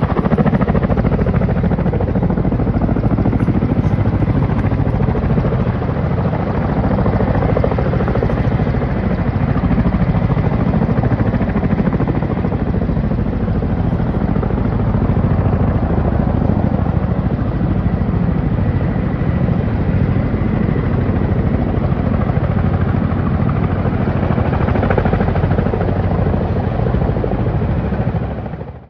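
Firefighting helicopter's rotor and engine running steadily and loudly.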